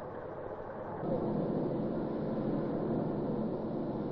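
Steady rumbling noise of a heavy railway vehicle rolling along the track, which becomes louder about a second in and then holds.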